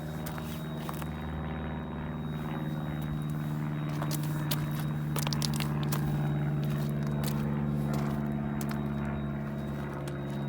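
Volkswagen Polo 1.2 TSI turbocharged four-cylinder petrol engine idling steadily, with a few light clicks about five seconds in.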